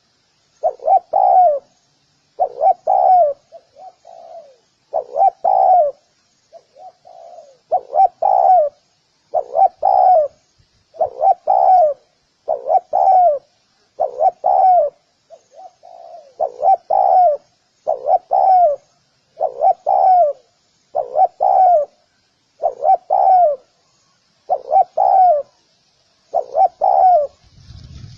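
Spotted dove cooing: a short phrase of two or three notes, repeated about every one and a half to two seconds.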